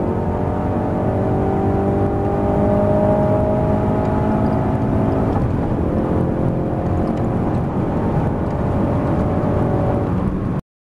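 Ford Focus RS's 2.3-litre turbocharged four-cylinder EcoBoost engine under hard acceleration in a high gear, its pitch climbing slowly. There is a short break about halfway through, like a gear change, and then it climbs again. The sound cuts off suddenly near the end.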